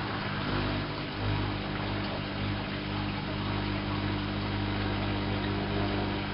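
Whirlpool AWO 5346 washing machine running: a steady motor hum with an even whir over it.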